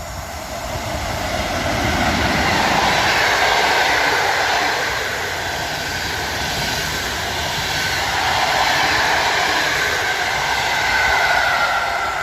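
A train passing at close range, a steady rush of rolling noise on the rails that swells loudest a few seconds in and again near the end.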